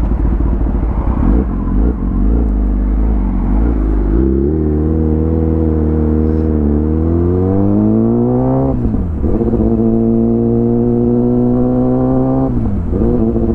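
Kawasaki ZX10R's inline-four engine through an Arrow full exhaust system, heard from the rider's helmet: running low for about four seconds, then revving up steadily under acceleration. The pitch drops at an upshift about nine seconds in, climbs again and drops at a second upshift near the end.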